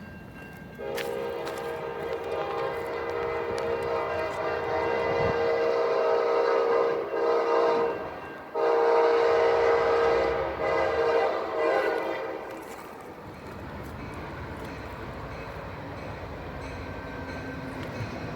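Amtrak passenger locomotive's multi-chime air horn sounding two long blasts, the first about seven seconds long and the second about four. The train then runs past.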